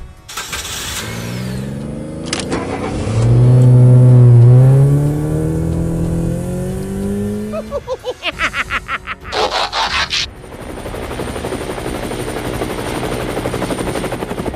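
Vehicle engine sound effect revving, its pitch rising and falling and loudest about four seconds in. A quick run of rattling pulses and a short burst of noise follow, then a steady hiss.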